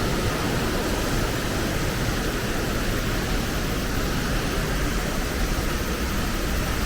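Waterfall in heavy flow, swollen by a typhoon, pouring as a loud, steady rush of water with no let-up.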